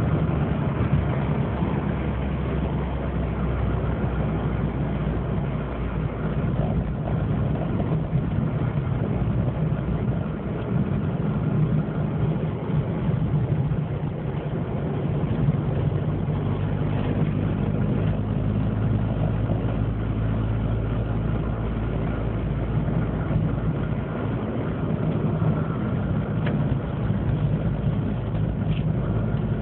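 Opel Corsa 1.0 12V three-cylinder engine (X10XE) running steadily with a deep hum, its exhaust broken and crumbling. The engine note shifts slightly about halfway through.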